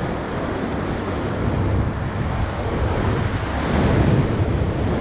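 Rushing river whitewater around a raft, with wind buffeting the microphone; the noise grows a little louder near the end.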